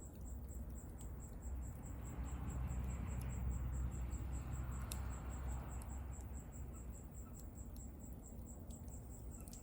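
Crickets chirping in a steady, even pulse of several chirps a second, over the low rumble and scattered faint crackles of a bonfire. A soft rush swells in the middle and fades away.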